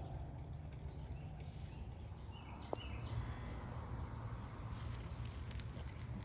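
West Highland white terrier puppies scuffling and pattering about in play, with scattered light clicks and one short sharp sound a little under halfway through, over a steady low rumble.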